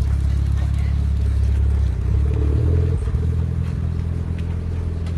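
Motorcycle engine running steadily at a low idle, its pitch shifting briefly about two to three seconds in.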